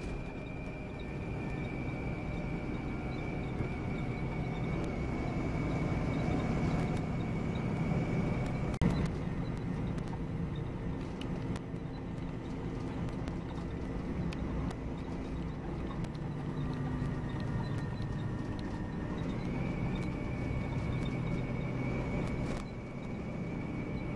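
Volvo B9R coach under way, heard from on board: engine and road noise with a steady high-pitched whine that dips slightly in pitch for a while and comes back up about two-thirds of the way through. A few sharp knocks or rattles come through, one about a third of the way in.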